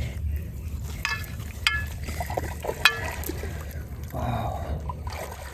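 Water splashing and trickling, with three sharp clicks about a second, a second and a half, and three seconds in, over a steady low rumble.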